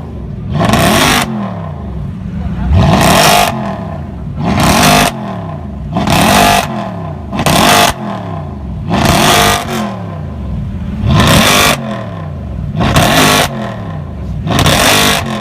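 A car engine being revved over and over while stationary, about nine sharp throttle blips, each a rising and falling surge, with the engine running steadily between them.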